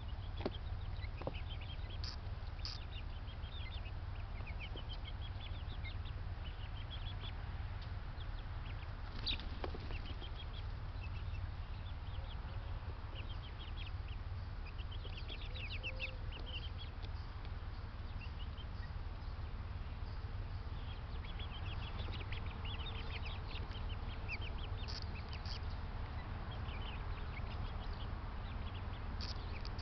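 Birds in a backyard bird yard calling, many short high chirps in quick runs throughout, over a steady low rumble.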